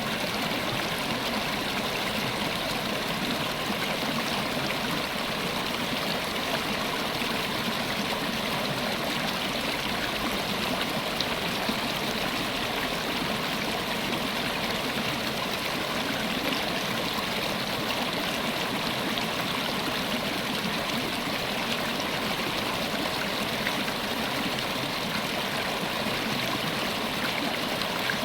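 River water flowing steadily over rocks, an even rushing and trickling without a break.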